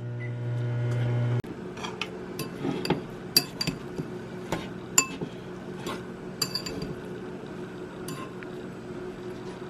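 Dishes and cutlery clinking and knocking as they are handled, with a steady appliance hum underneath that drops in level about a second and a half in.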